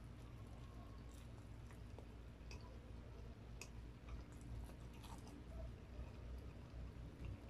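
Close-up chewing of crispy fried chicken and rice, with scattered small crunches and wet mouth clicks coming at irregular moments over a faint low hum.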